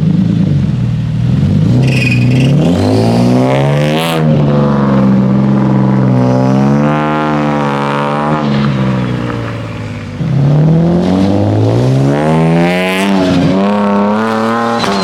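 Turbocharged car engine driven hard. Its pitch climbs and drops several times, falling sharply about four seconds in and again near the end, with a slower fall in the middle.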